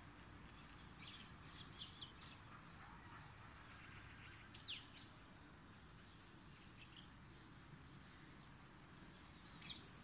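Birds chirping over a faint steady background hiss. A quick run of short high chirps comes about a second in, a single falling chirp near the middle, and a louder falling chirp near the end.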